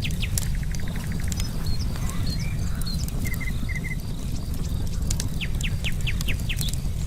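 Campfire crackling with scattered sharp pops over a steady low rumble, while birds sing: a trill of quick falling notes at the start and again about five seconds in, with a few short chirps in between.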